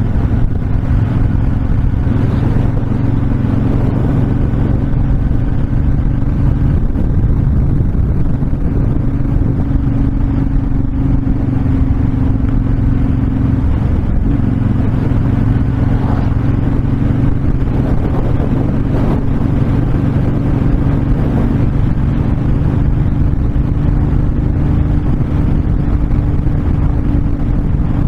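Honda VTX1300's V-twin engine running steadily at cruising speed, with wind rushing past. The engine note breaks briefly about halfway through.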